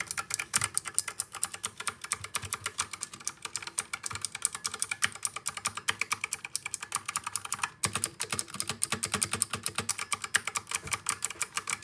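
Fast, continuous typing on a Razer Huntsman Mini compact mechanical keyboard: a dense run of key clicks, with a brief pause about eight seconds in.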